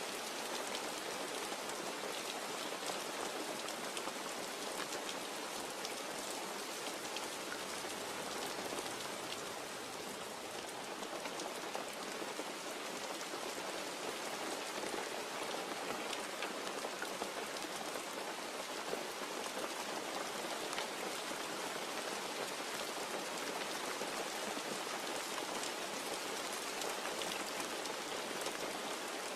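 Steady rain falling and pattering on a surface, a dense even hiss with many small drop ticks; no thunder is heard here.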